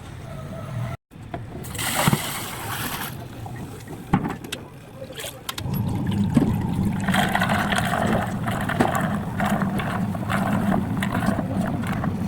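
Washing machine running: a steady motor hum starts about halfway through, with water churning and splashing in the tub.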